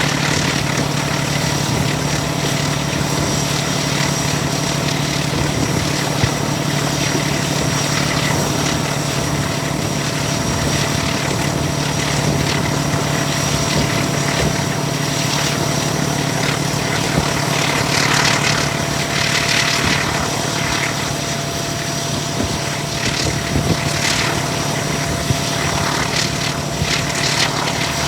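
Diesel train running with a steady low engine drone, with irregular rattling noise in the second half.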